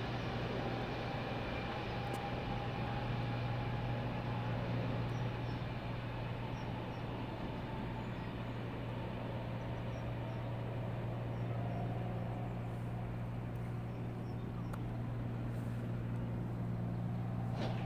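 Railway station background: a steady low electric hum over an even rumble, with a faint higher tone near the start that fades away as an ICE T electric train pulls off into the distance.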